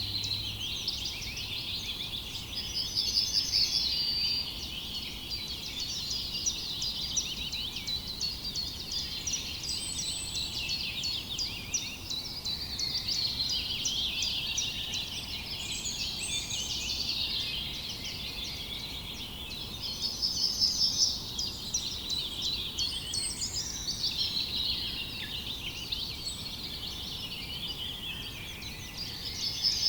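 A dense chorus of many small songbirds chirping and singing together without a break. A louder, rapid trilled phrase of quickly repeated notes stands out three times: a few seconds in, about two-thirds through, and at the very end.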